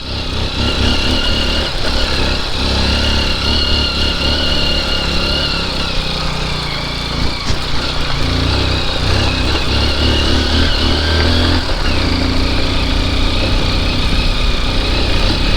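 Honda XR dirt bike's single-cylinder engine running steadily as it is ridden along a rough off-road track.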